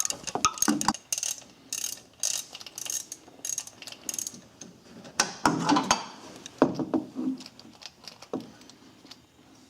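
Ratchet wrench clicking in quick runs as the 13 mm bolt on the right timing-belt idler is backed out, followed by a few louder metallic knocks.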